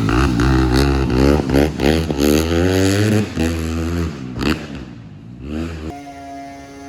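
Dirt bike engine revving up and down repeatedly as it is ridden, the pitch rising and falling for about four seconds before it drops away. A steadier, quieter engine tone takes over near the end.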